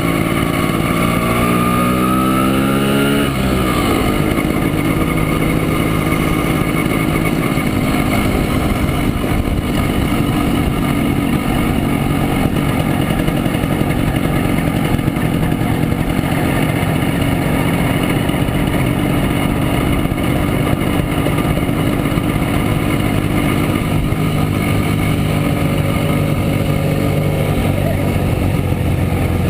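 Montesa Impala Comando 175's two-stroke single-cylinder engine heard from aboard the moving bike. The pitch rises in steps for the first few seconds, then the engine runs steadily at cruising speed under a constant rush of wind noise.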